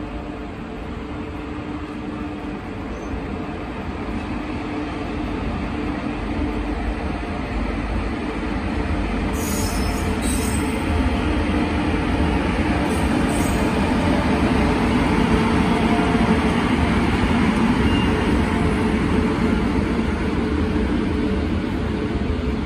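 Electric locomotive and passenger coaches passing along the platform: a steady rumble of wheels on rail that grows louder as the train comes alongside and then holds. A few brief high squeaks come near the middle.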